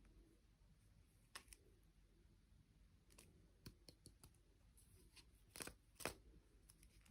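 Near silence broken by about five faint, sharp clicks and taps, the loudest two close together near the end, typical of small plastic toy parts or packaging being handled.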